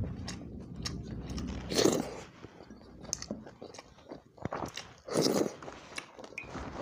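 Close-up sounds of a person eating by hand, chewing and biting a mouthful of chicken curry and water rice with wet mouth noises. Two louder bursts come about two seconds in and again just past five seconds.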